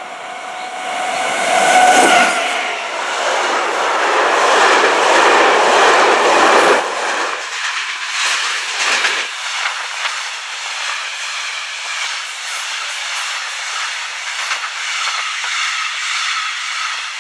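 Electric freight locomotive, an Alstom Prima EL3U/4, passing close by, loudest about two seconds in. A long block train of loaded flat wagons follows, rolling past with a steady rush of wheels on the rails.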